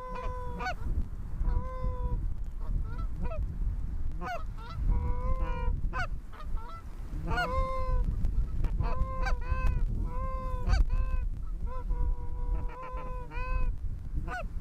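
Goose honks and clucks, repeated throughout in quick short calls, some held on one note and some sharply breaking upward, over a low rumble of wind on the microphone.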